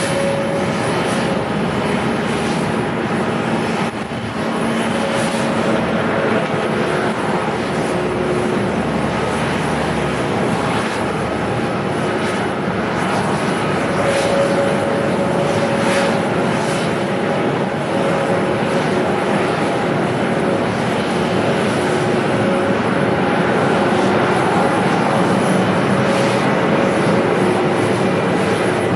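Airliner engines on a landing approach: a steady drone with a few held tones, slowly growing louder.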